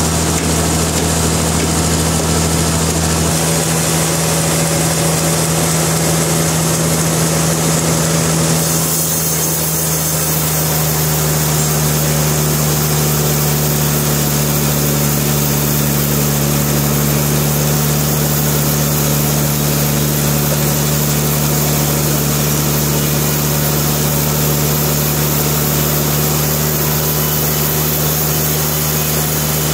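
Sawmill machinery running with a steady hum, its tone shifting slightly about three seconds in and again about nine seconds in.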